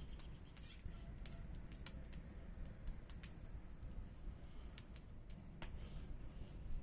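Firewood burning and crackling, with sharp irregular pops and snaps over a low steady rumble.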